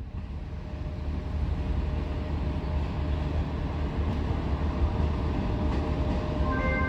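An EP1M AC electric locomotive hauling an express passenger train as it approaches: a steady low rumble that grows louder over the first couple of seconds, with a few thin high tones setting in near the end.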